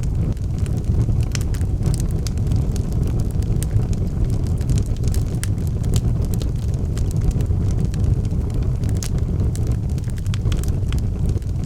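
Wood fire burning in a fireplace: a steady low rumble of the flames with frequent small, sharp crackles and pops from the logs.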